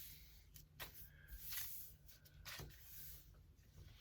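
Faint rustling and creasing of a sheet of paper being folded by hand, with a few short, soft brushing strokes as the fold is pressed down.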